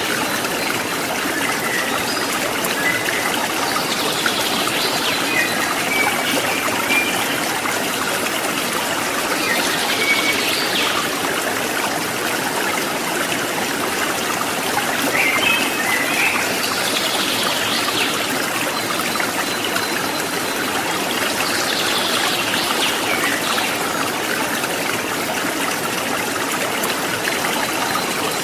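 Steady babbling and trickling of a stream's running water.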